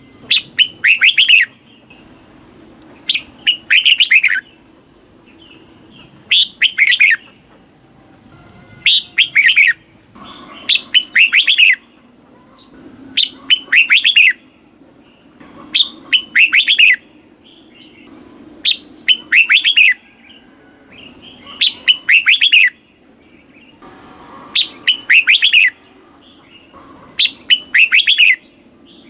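Red-whiskered bulbul singing: short, loud phrases of several quick whistled notes, repeated about every two and a half to three seconds.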